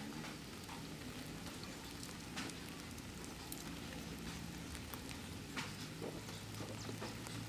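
Steady rain falling, with scattered single drops hitting close by. A faint low steady hum comes in about five and a half seconds in.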